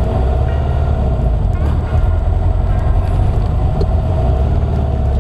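1964 VW Beetle's air-cooled flat-four engine running steadily while driving, heard from inside the cabin.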